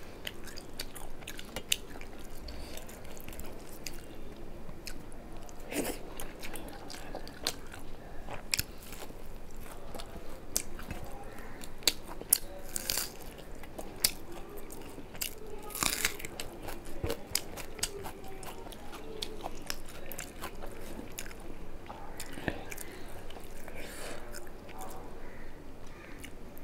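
Close-miked chewing and biting of a person eating rice and fried fish by hand, with many short crunchy bites, wet mouth clicks and crackles.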